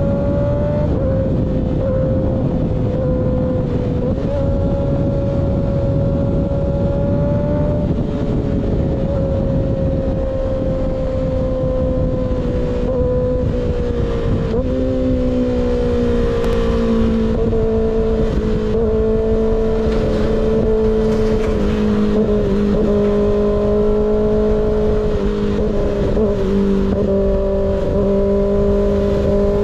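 Motorcycle engine running at high revs under steady load, its pitch slowly sagging over the ride, with a slip-on exhaust and constant wind rumble on the microphone.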